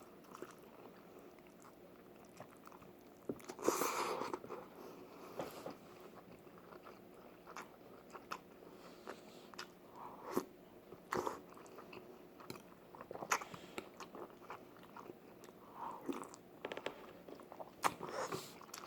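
A person eating beef seaweed soup close to the microphone: mouth and chewing noises with scattered sharp clicks and a few short louder bursts.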